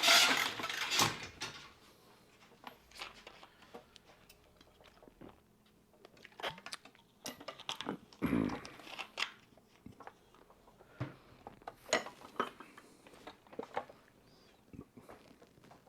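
Metal sockets and tools clinking and knocking while someone rummages through a socket set or toolbox: scattered light clicks and clatters, with a louder knock about eight seconds in.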